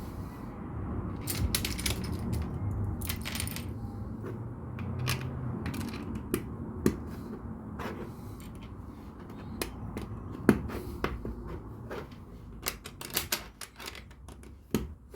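LEGO bricks being handled and pressed together: irregular sharp plastic clicks and snaps over rustling, thinning out toward the end.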